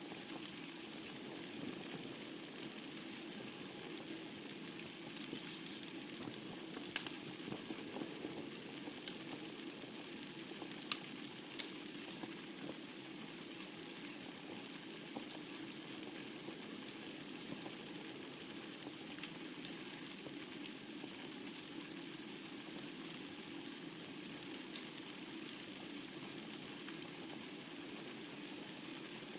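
Wood fire burning in a fireplace: a steady hiss with scattered crackles and sharp pops, the loudest pops about seven and eleven seconds in.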